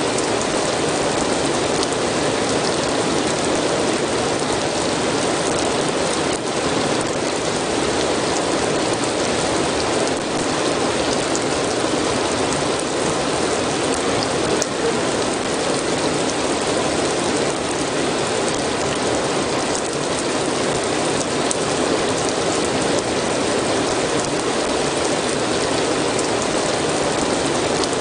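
Steady heavy rain, a dense even hiss with scattered drop ticks.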